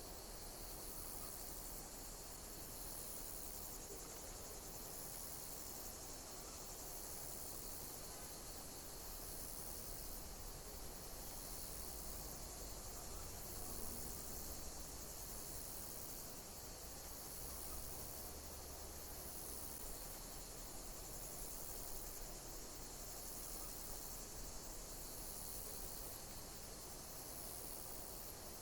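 Insects chirping: a steady high-pitched trill, with a louder pulse of chirps about every two seconds.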